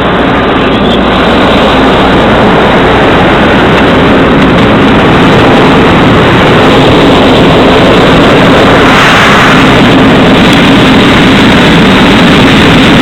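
An engine running steadily at one speed, loud and close, with a steady hum under a dense rushing noise.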